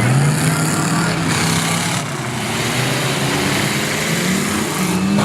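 Radio-controlled truck motor running under throttle, its pitch holding steady, then rising about four seconds in and falling again near the end, with a continuous rough noise from the drivetrain and terrain.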